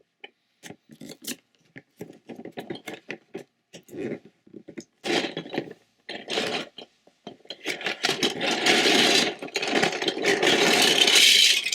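Cardboard toy box being opened by hand: scattered taps and clicks of the flaps and packaging, then a steady rustling and scraping for the last few seconds.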